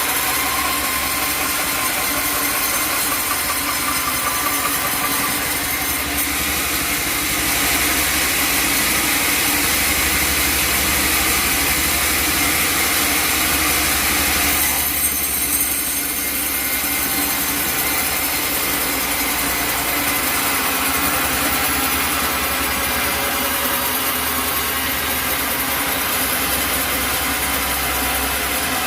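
Sawmill running with its engine going steadily and the saw working through wood, likely hard acacia. The sound shifts about fifteen seconds in.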